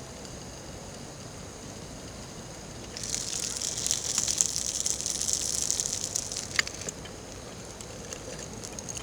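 Food sizzling hard in a hot pan over a camp fire: a loud hissing sizzle with dense crackles starts abruptly about three seconds in and dies down after about four seconds, with a sharp click near its end.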